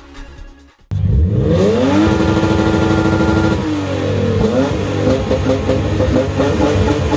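A car engine is revved hard about a second in, its pitch climbing quickly to high revs and holding there. About halfway through the revs dip briefly, then climb and hold high again.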